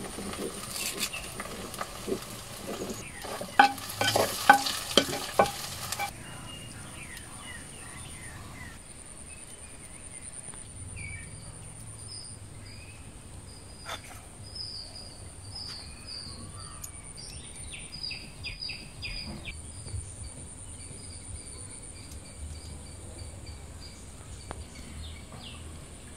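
Curry leaves sizzling and crackling as they hit the hot clay pot, with a wooden spoon stirring and knocking, for about the first six seconds. It then drops to quiet outdoor air with birds chirping.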